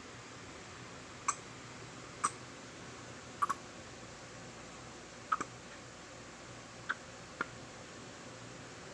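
Small sharp clicks and taps from handling a pod vape kit and its e-liquid bottle during refilling: about seven scattered clicks, two of them in quick pairs, over a faint steady hiss.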